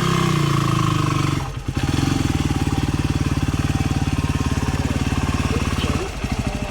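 Dual-sport motorcycle engine running close by. It revs up and back down in the first second, drops briefly about a second and a half in, then runs steadily with a quick dip near the end.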